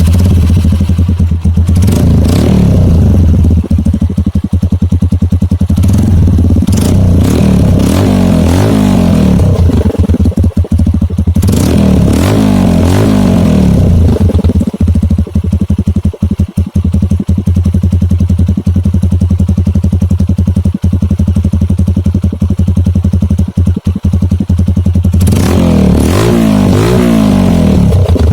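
Kawasaki KLX 150's single-cylinder four-stroke engine running through a Purbalingga T4 Pro Circuit aftermarket exhaust. It idles and is revved up several times, each rev lasting a couple of seconds.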